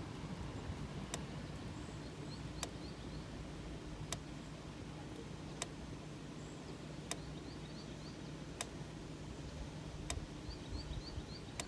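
Solar electric fence energizer clicking with each pulse, evenly about once every second and a half, a sign it is charging the fence. A small bird chirps short rising notes in runs of three or four, three times.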